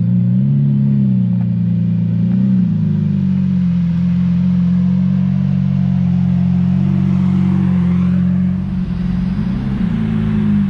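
Lamborghini Aventador SVJ's V12 idling through its Balboni aftermarket exhaust, a steady deep note with a few small rises in revs: about half a second in, at about two and a half seconds, and again near the end.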